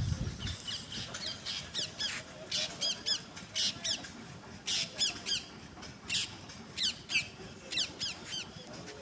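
Birds calling: many short, curved, high-pitched calls repeated a few times a second in clusters, with a brief low thud right at the start.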